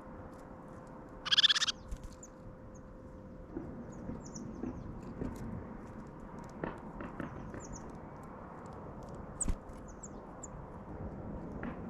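Small birds at a feeding spot chirping, with short high chirps every second or two, over a steady outdoor background hiss. About a second in comes a loud, short noisy burst, the loudest sound, and a few sharp clicks are scattered through.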